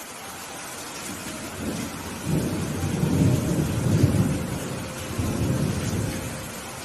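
Thunder rumbling over steady rain: a low, rolling rumble builds about a second and a half in, peaks a couple of seconds later with a second swell, and dies away near the end while the rain hiss continues.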